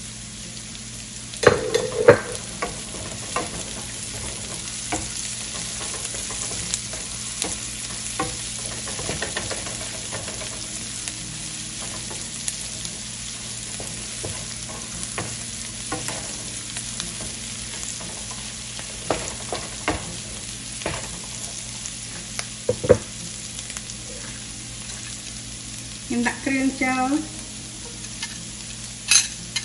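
Minced garlic and chopped red chilies sizzling in olive oil and butter in a nonstick frying pan, stirred with a wooden spatula that scrapes and knocks against the pan now and then, the loudest knock about two seconds in.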